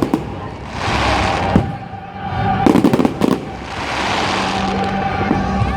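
Fireworks display: sharp bangs and crackling from bursting shells, with swells of dense crackle and a cluster of loud reports about three seconds in.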